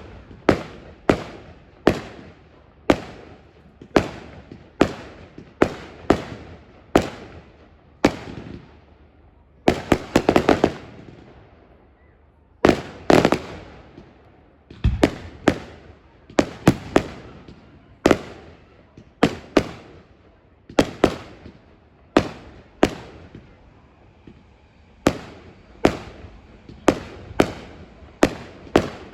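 Fireworks bursting in quick succession, sharp bangs about one or two a second, each with a short echoing tail, and a rapid cluster of bangs about ten seconds in.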